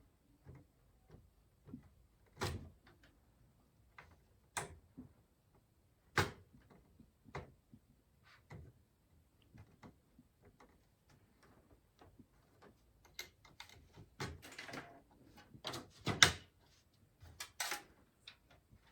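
Scattered clicks and knocks of a PC case and its parts being handled during assembly, busier with rustling in the last few seconds; the loudest knock comes about three seconds before the end.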